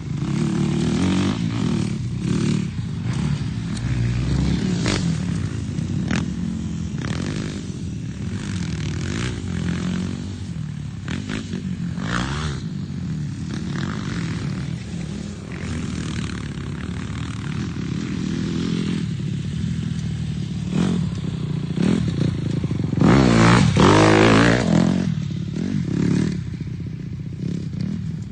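Dirt bike engines running around a motocross track, their pitch rising and falling as the riders throttle on and off, with scattered clattering and scraping. About 23 seconds in, a bike passes close and revs hard, the loudest moment.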